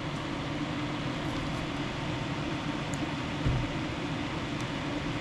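Steady low mechanical hum with an even hiss, with one soft low thump about three and a half seconds in.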